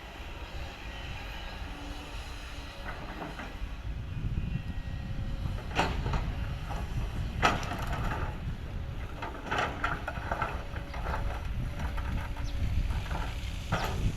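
Kobelco excavator's diesel engine running with a low rumble that grows louder about four seconds in, broken by several sharp clanks and knocks while it works rock.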